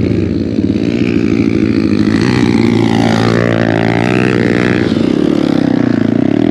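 Single-cylinder engine of a Hero Xpulse 200 motorcycle running through an aftermarket MW Performance exhaust. Its pitch falls and then climbs back up around the middle as the throttle is worked.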